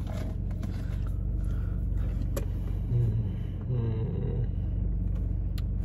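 Car engine running with a steady low hum heard from inside the cabin, with a short low murmur about three seconds in.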